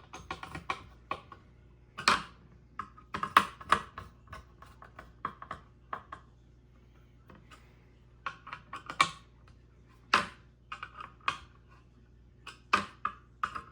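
Metal ceiling-fan blade irons being handled and set down on a cloth-covered table: irregular clinks and clacks, some with a short metallic ring, a few seconds apart or in quick clusters.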